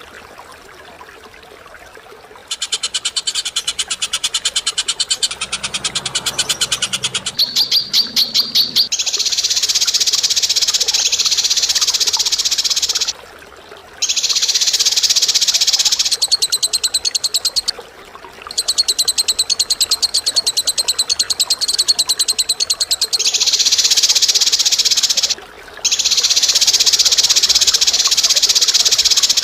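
A caged bird's harsh, rapid rattling trill, kept up in long bursts of several seconds with short breaks between them, starting a couple of seconds in.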